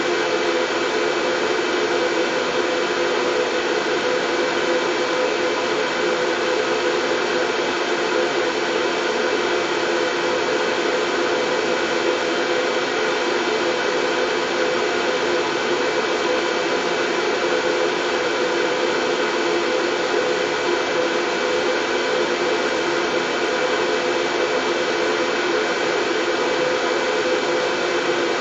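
Steady, unchanging white noise for soothing a colicky baby to sleep: an even rushing hiss with a faint hum underneath.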